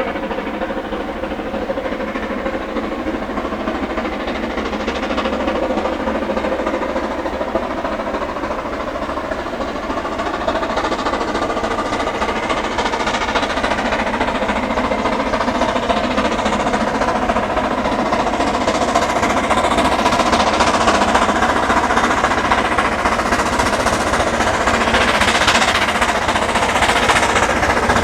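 Narrow-gauge steam locomotive working a train, its exhaust a rapid run of beats that grows louder as it approaches.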